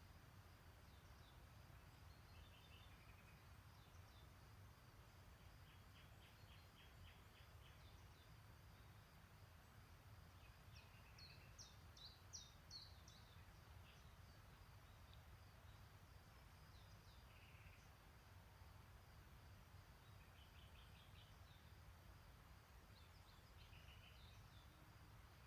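Quiet spring streamside ambience: scattered songbird chirps and short trills, loudest a little before halfway, over a steady low background noise.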